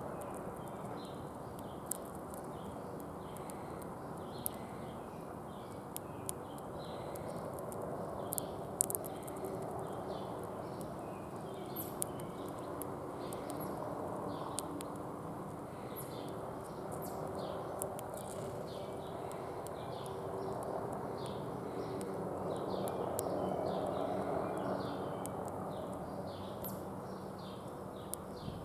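Small birds chirping over and over with short, high notes, with scattered sharp clicks and taps, over a steady background hum of outdoor noise.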